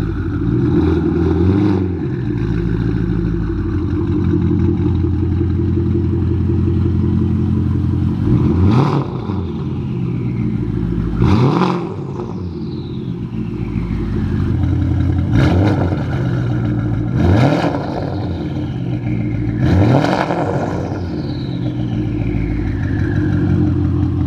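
Porsche Panamera Turbo's twin-turbo V8 through a custom stainless GT3-style exhaust, idling and revved in about six short blips that rise and fall back, kept under 3,000 RPM.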